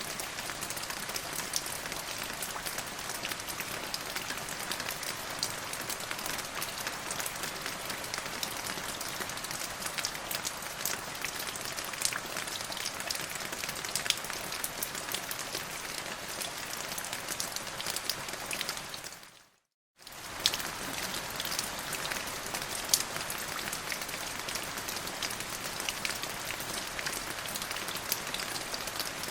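Steady rain falling, with many small drop impacts over an even hiss. Near two-thirds of the way through it fades out to silence for about a second, then fades back in.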